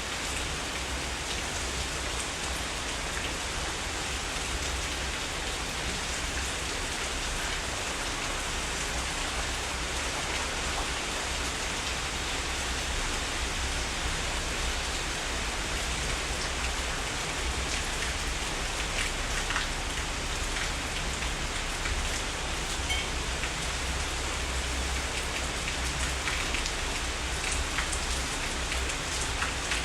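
Heavy rain falling steadily, a dense even hiss of rain with individual drops pattering through it.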